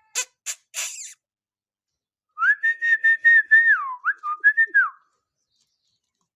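Pet parrot gives three short harsh, noisy bursts, then about two seconds later a run of clear whistled notes on one high pitch, ending with a couple of quick dips down and back up.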